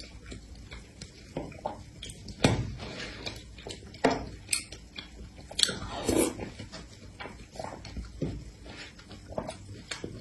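Close-up chewing and mouth sounds of someone eating spoonfuls of a fruit, taro-ball and milk-tea dessert, with irregular sharp smacks and clicks.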